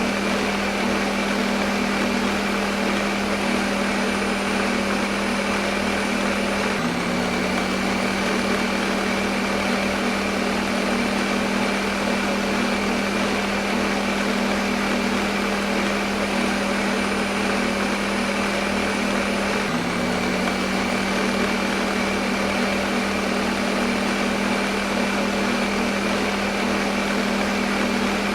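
Electric kitchen blender motor running steadily with a constant hum and hiss, its pitch dipping briefly about seven seconds in and again near twenty seconds.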